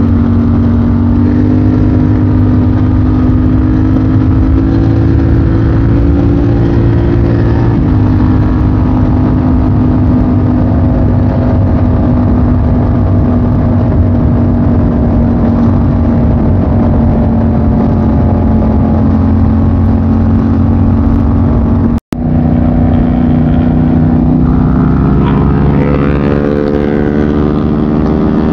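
Motorcycle engine running under way on the road, holding a steady note with a drop in pitch about eight seconds in, like a gear change. After a sudden cut about 22 seconds in, the engine note rises near the end as it accelerates.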